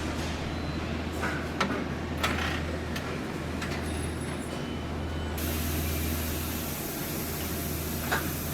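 Assembly-plant floor noise: a steady low machine hum with scattered sharp metallic clicks and knocks.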